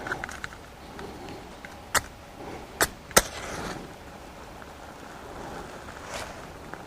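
Firewood being handled: three sharp wooden knocks or cracks, one about two seconds in and two close together about a second later, with faint rustling around them.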